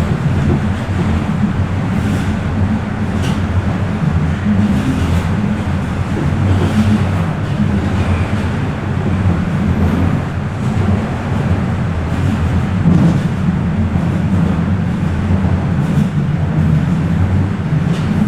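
Bombardier Toronto Rocket subway train running between stations: a steady low rumble of wheels and traction motors, with a few faint clicks.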